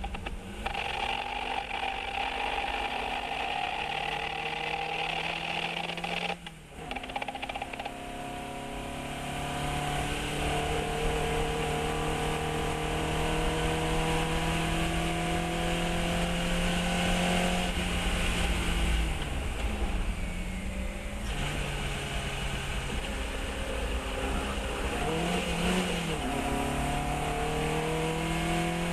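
A Fiat 132 race car's engine being driven hard on track. The revs climb in long sweeps through the gears, with a quick drop at a gear change about a quarter of the way in. The revs fall and dip under braking and downshifting about two-thirds of the way through, then come a few short rises and falls, and the engine pulls up again near the end.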